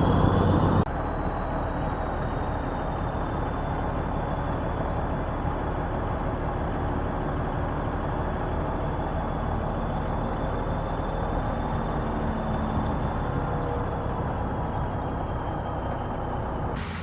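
Diesel engine of heavy earthmoving machinery running steadily under work, with a faint high whine over it. The level drops abruptly about a second in.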